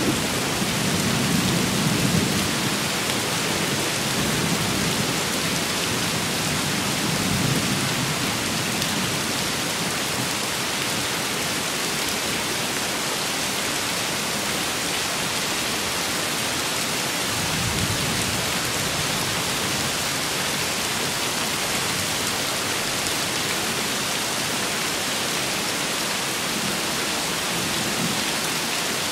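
Steady rain falling, with low rumbles of thunder: one dying away over the first few seconds, another brief roll a little past the middle, and a faint one near the end.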